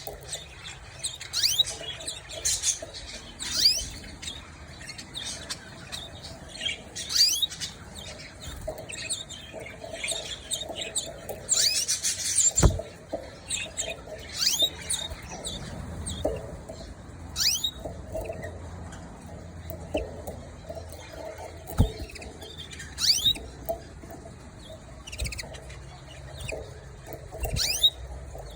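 Canaries chirping: short, high, falling chirps at irregular intervals, thickening into a denser burst about twelve seconds in. A few light knocks sound among them.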